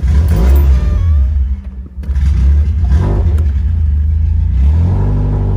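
1987 Alfa Romeo Spider Quadrifoglio's twin-cam four-cylinder engine firing on a cold start, heard from inside the cabin. It catches suddenly and runs up loud, dips for a moment about two seconds in, then picks up again and settles toward a steady fast cold idle near the end. The exhaust has its stock muffler removed, leaving only a glass pack, so it runs a little louder than stock.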